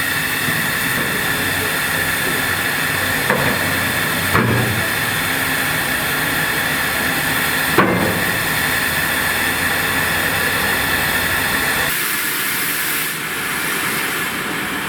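Train on the railway: a steady hissing rush with three sharp knocks in the first half, the sound thinning out near the end.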